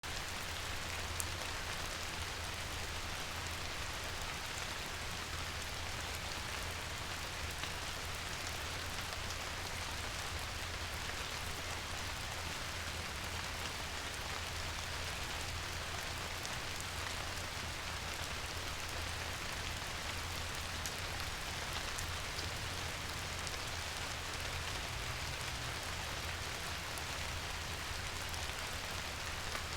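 Steady rain falling on a surface, an even hiss of dense drops with a few individual drops ticking through, over a steady low rumble.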